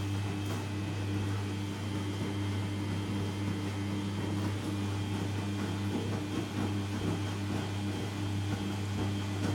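Samsung P1271 washing machine's drain pump running with a steady low hum, pumping out the dirty wash water.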